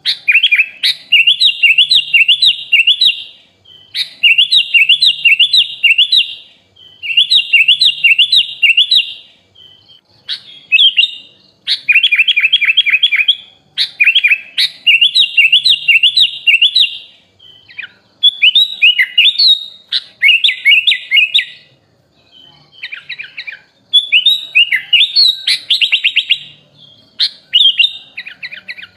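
Sooty-headed bulbul (kutilang) singing loud, repeated bursts of rapid, chattering notes, each phrase a second or two long with short pauses between, and a longer pause about two-thirds of the way through.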